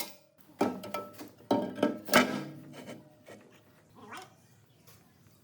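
Metal machine parts being handled in a workshop: three sharp knocks and clatters in the first couple of seconds, each ringing briefly, then a short squeak about four seconds in.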